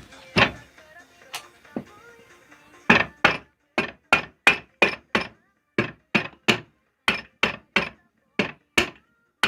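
Sharp, repeated tapping as the second crankcase half of a Jawa 634/638 engine is knocked down onto the first half to seat it on its sealant. There are a few taps at first, then a steady run of about three taps a second from about three seconds in.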